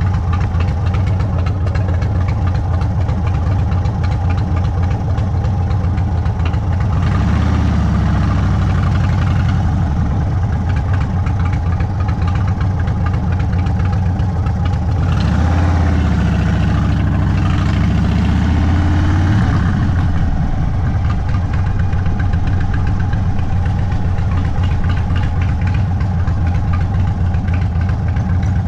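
Indian Sport Chief's air-cooled V-twin running at low speed through a loud Sawicki Speed aftermarket exhaust. It is opened up twice, with the pitch rising and falling about seven seconds in and again about fifteen seconds in, then settles back to a steady low rumble.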